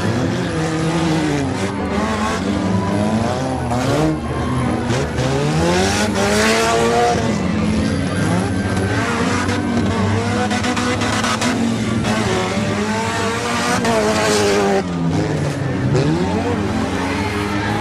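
Several demolition-derby car engines revving hard together, their pitches rising and falling as the cars accelerate, brake and pass around the dirt figure-8 track.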